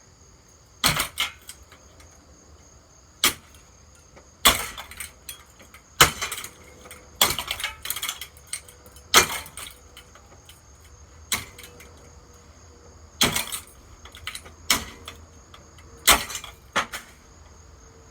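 Hammer blows on a Hampton Bay ceiling fan: about a dozen sharp strikes at irregular intervals, some coming in quick pairs.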